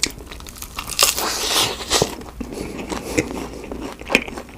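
Biting into a crispy McDonald's chicken nugget and chewing it: a loud crunch about a second in, then scattered crackling crunches as it is chewed.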